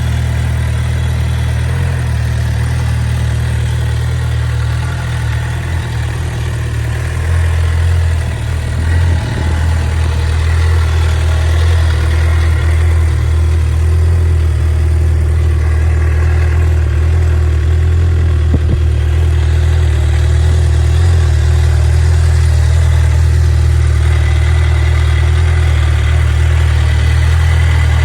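2011 Suzuki GSX-R750's inline-four engine idling steadily, getting a little louder after about eight seconds. A single small click about two-thirds of the way through.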